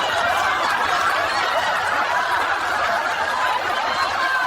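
A crowd laughing together, an even, sustained audience laugh.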